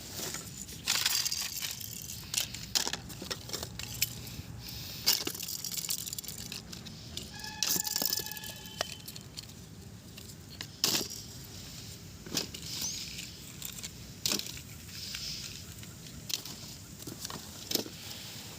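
Toys being handled: scattered clicks, taps and rattles, with a short beep about eight seconds in.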